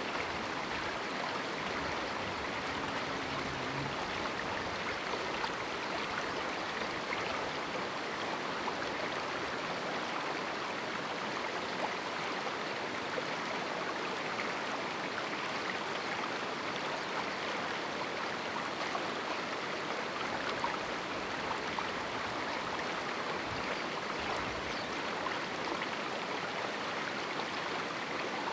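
Small river flowing through a rocky canyon: a steady, even rush of water over stones.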